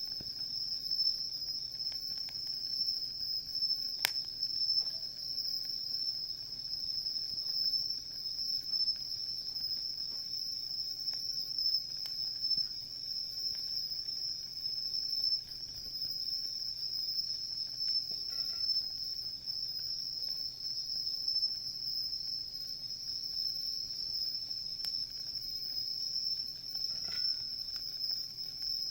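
Insects trilling in a steady, continuous high-pitched chorus, with one sharp pop of the campfire about four seconds in.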